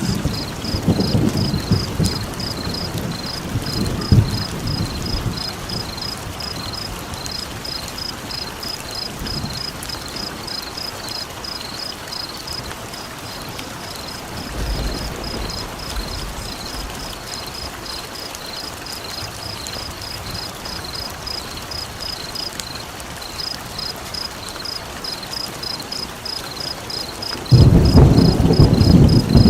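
Steady rain hiss with low rumbles of thunder in the first few seconds and a loud one near the end, over a rapid high-pitched chirping call repeating about four times a second, with a few short breaks.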